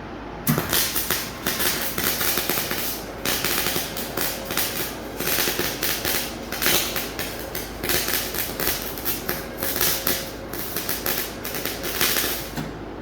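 Electric welding arc crackling and spitting without a break, struck suddenly about half a second in and stopped shortly before the end.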